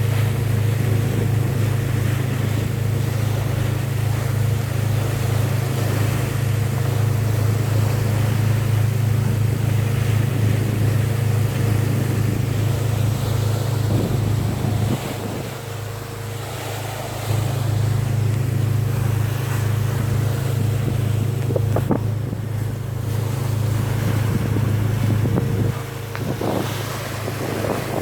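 A boat's engine droning steadily in a low pulsing hum, under wind on the microphone and the wash of the sea. The drone weakens for a couple of seconds about halfway through and again near the end.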